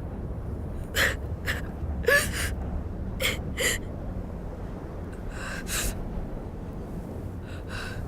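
A boy's short, shaky gasping breaths, about seven in eight seconds, some with a brief whimpering catch in the voice: he is shivering with cold.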